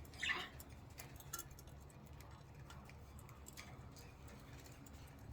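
Faint, scattered clicks and ticks of budgies moving about their cage, pecking and gripping with beaks and feet, with one short, louder sound just after the start.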